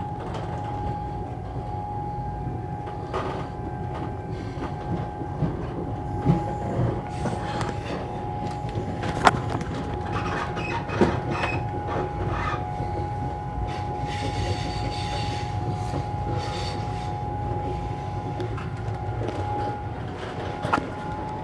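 Passenger train running, heard from inside the carriage: a steady low rumble with a steady whine that fades out near the end, and a few sharp knocks along the way.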